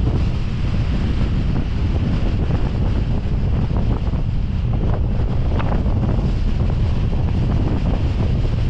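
Strong wind buffeting the microphone: a steady, loud low rumble, with a few faint brief knocks here and there.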